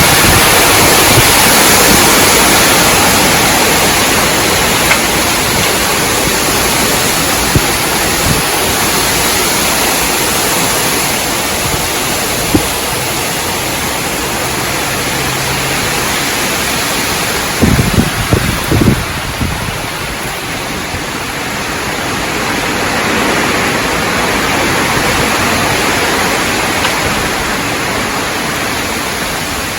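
Strong wind gusting through tree branches and leaves, a loud steady rush that swells and eases. A cluster of short low thumps a little past halfway.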